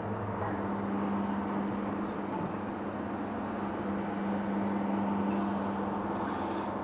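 Steady machine hum with a constant low tone and a noisy background.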